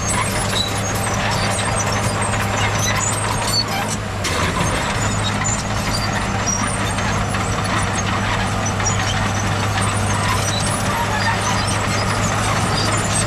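Heavy diesel earthmoving machinery running steadily under load, a constant low engine hum with a dense rattling wash over it and a brief dip about four seconds in.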